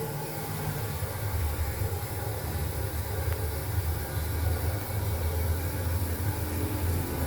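Steady low rumble and hiss of a moving vehicle, with no distinct events.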